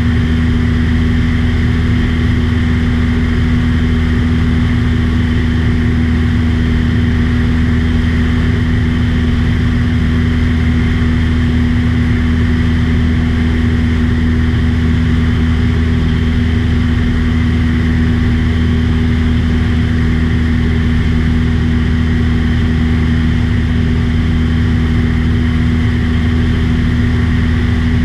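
Aircraft engine running steadily in cruise, a loud, unchanging drone heard from inside the cabin.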